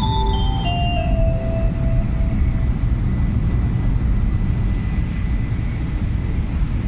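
Steady low running noise inside a Shinkansen car at speed. The last notes of the onboard announcement chime step downward and fade out in the first two seconds or so.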